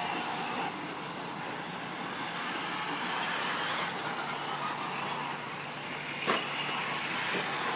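Radio-controlled 4WD short course trucks running on a dirt track: a steady wash of motor whine and tyre noise with faint rising and falling high pitches, and a sharp click about six seconds in.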